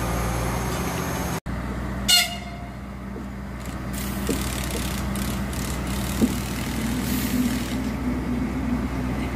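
A CityElefant double-deck electric train approaching a level crossing: a short, high horn toot about two seconds in, then a steady hum that grows louder as the train nears. Before that, for the first second and a half, diesel machinery is idling.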